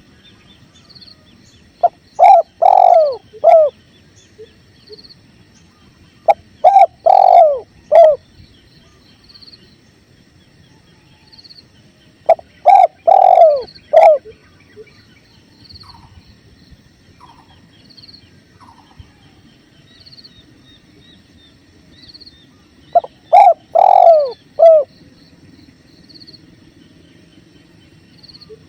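Spotted dove cooing: four phrases, each of a few short notes around a longer drawn-out coo, several seconds apart. Under them runs the steady low rush of flowing river water.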